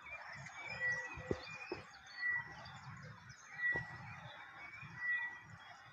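Birds chirping and calling, over a short high note that repeats about every second and a half.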